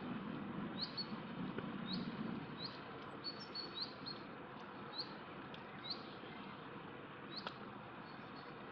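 A small songbird repeating a short, sharp chirp about once a second, over a steady background hiss.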